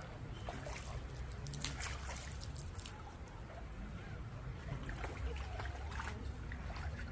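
Water trickling and splashing, with scattered short splashes over a steady low rumble like wind on the microphone, and faint voices in the background.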